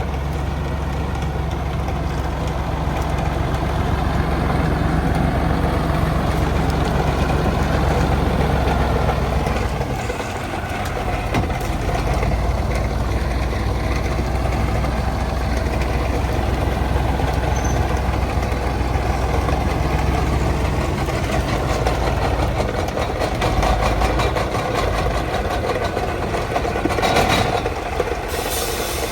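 Engine of an old 1975 truck running steadily. Its low note drops out briefly about ten seconds in and changes again a little past twenty seconds. A short hiss comes near the end.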